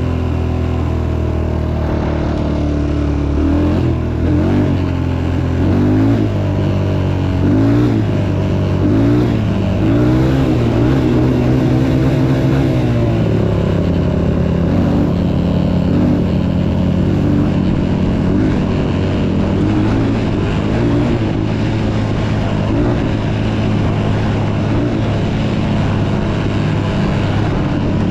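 Motocross dirt bike engine running under throttle, revving up and down repeatedly for about ten seconds, then settling into a steadier drone.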